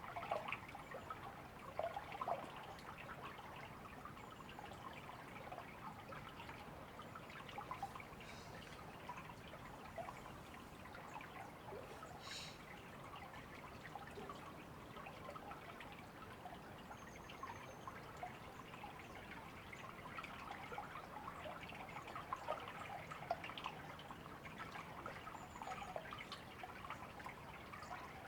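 River water trickling and babbling steadily, with a few faint, short high bird chirps over it.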